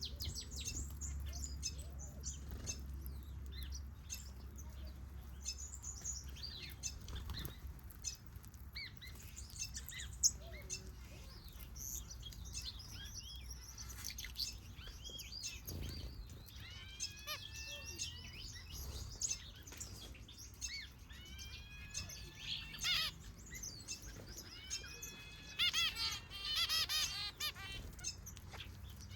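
Aviary finches and softbills chirping together: a steady scatter of short, high tweets, with a series of repeated sliding calls in the middle and a fast warbling trill near the end.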